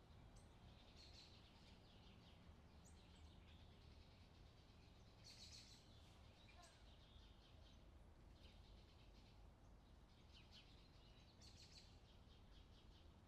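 Faint summer outdoor ambience: birds chirping and calling on and off over a low, steady background rumble.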